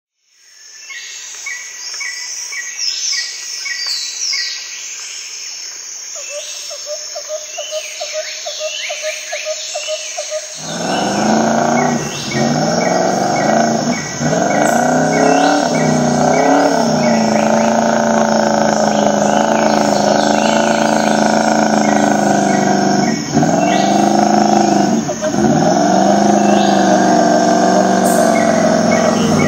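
Birds chirping steadily. About a third of the way in, the Nissan Patrol's V8 engine comes in suddenly and loud, running hard with its revs wavering, and dips sharply in revs twice near the end, with the birds still audible above it.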